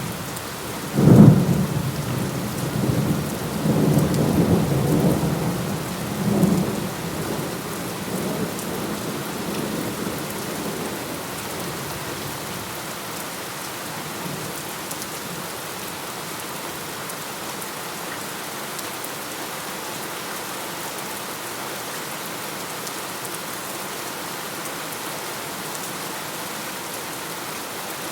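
Thunderstorm: steady rain with a thunderclap about a second in. The thunder rumbles on in swells for about ten seconds and fades, leaving the rain's steady hiss.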